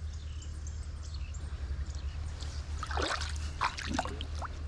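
Creek water trickling, over a steady low rumble of wind on the microphone. A few brief sharp sounds come about three to four seconds in.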